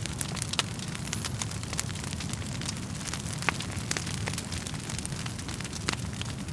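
Wood fire crackling: irregular sharp snaps and pops over a steady low rumble of burning flames, with a few louder pops standing out.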